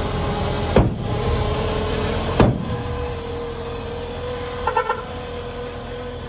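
Heavy diesel earth-moving machinery running steadily, with two sharp knocks about one and two and a half seconds in, a steady whine from about two seconds, and three quick beeps about three quarters of the way through.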